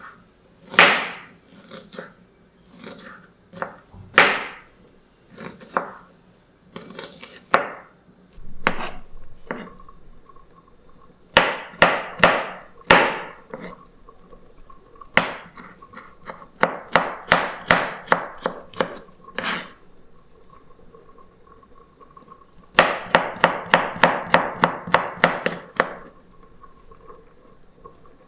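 Kitchen knife chopping food on a cutting board: scattered single cuts, then quick runs of strokes, the fastest near the end at about five a second.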